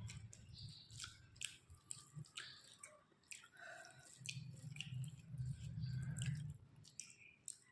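Close-miked chewing of a mouthful of rice and curry, with many short wet smacks and clicks of lips and tongue. A low hum runs under the chewing from about four to six and a half seconds in.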